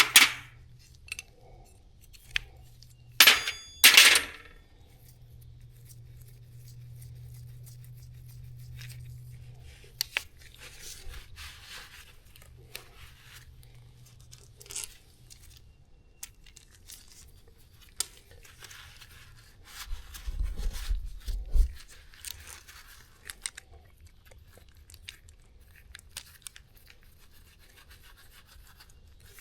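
Hand tools working on the metal fittings of a skid loader's hydraulic hose: sharp metallic clanks and clinks, the loudest near the start and a few seconds in, with rubbing and scraping in between. A faint steady low hum runs under the first half, and a brief low rumble comes about two-thirds of the way through.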